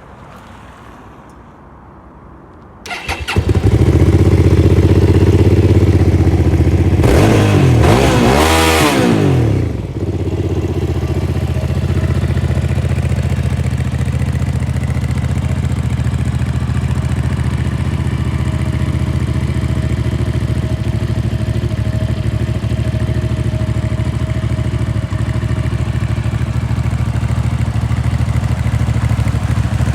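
VMC Cruiser 650 motorcycle engine starting about three seconds in and running loudly at a fast idle through its exhaust. Around the middle it is revved in a few rising and falling blips, then it settles to a steady, quieter idle.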